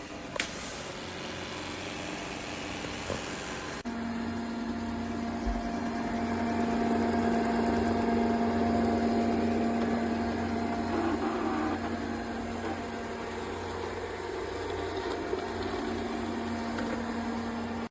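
ECOVACS Deebot T50 Omni robot vacuum's motor running with a steady hum, a single click about half a second in; about four seconds in a louder hum with a steady low tone starts up.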